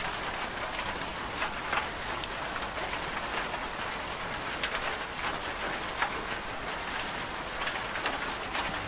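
Steady rain, with individual drops striking close by, sharper one now and then. There is no machine hum under it.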